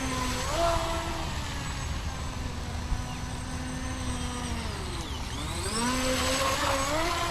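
Pro Boat Recoil 2 18-inch RC boat's brushless electric motor whining as the boat runs on the water. The pitch holds steady, drops sharply about five seconds in, then climbs back up.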